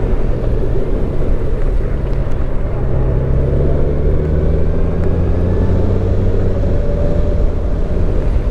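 Motorcycle engine running under way, with wind noise on the microphone; the engine note climbs gradually a few seconds in as it accelerates.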